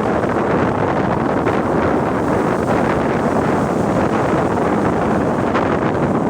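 Sea waves with a steady, loud rush of surf and wind on the microphone.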